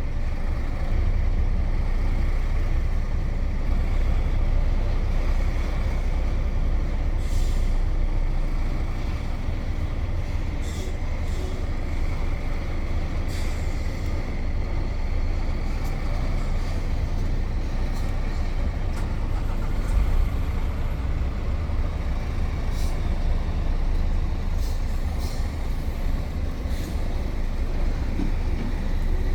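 Container truck driving on the road, heard from the driver's seat: a steady low engine and drivetrain rumble with road noise, and short clicks and rattles now and then.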